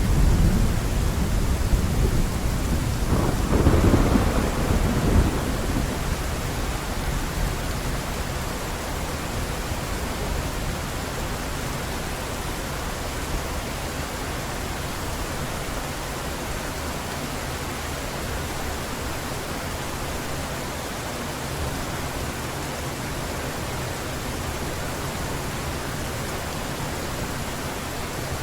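Heavy rain falling steadily, with a roll of thunder rumbling at the start that swells again a few seconds in and then dies away, leaving only the rain.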